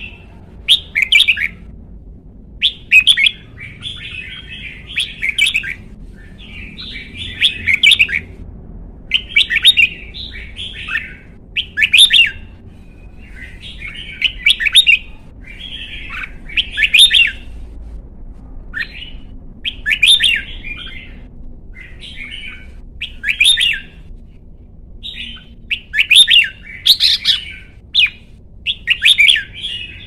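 Red-whiskered bulbul singing: short, bright warbling phrases of quick notes, repeated every two to three seconds, in the loud, full-throated style bred for bulbul singing contests.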